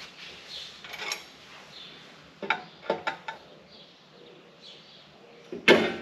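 Scattered metallic clanks and knocks from handling steel parts and tools: one about a second in, a quick cluster of three or four around the middle, and the loudest near the end. Faint bird chirps sound between them.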